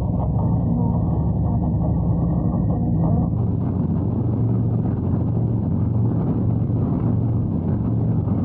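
Harley-Davidson Road Glide's V-twin engine running steadily while riding, with road and wind noise; the engine note shifts lower about three seconds in.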